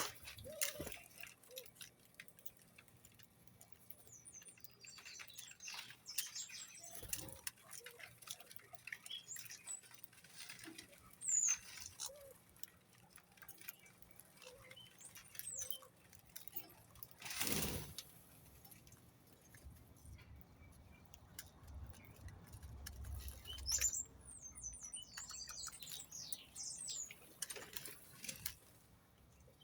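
Small birds chirping in short high notes and fluttering their wings, with scattered rustling and pecking-like taps. There is one louder rustle about halfway through.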